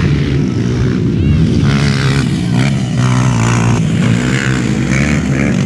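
Several motocross motorcycle engines running at once, their revs rising and falling as the bikes race.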